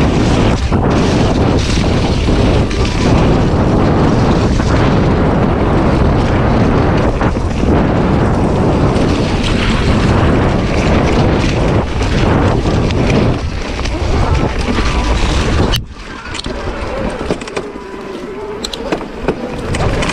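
Wind buffeting the microphone in a loud, low rushing noise that drops off suddenly about sixteen seconds in, leaving a quieter hiss with a few faint clicks.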